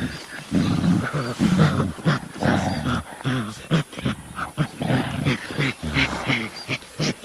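Animal calls, many short loud cries in quick succession.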